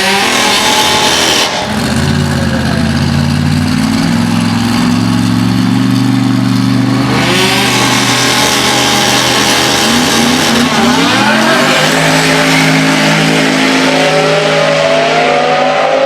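Drag-racing car engines revving hard. The pitch climbs, holds steady for several seconds, then climbs again about ten seconds in.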